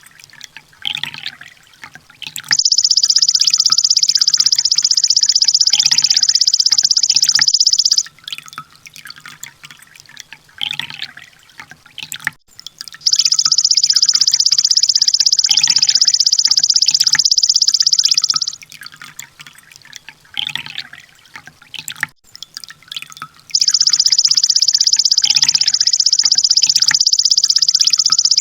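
Olive-backed sunbird singing: three long, loud, very rapid high-pitched trills of about five seconds each, with short scattered chirps between them.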